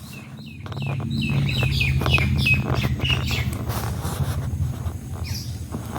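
Ringneck parrot calling in a quick series of short, sharp chirps, about four a second, which stop a little past halfway, over a steady low hum.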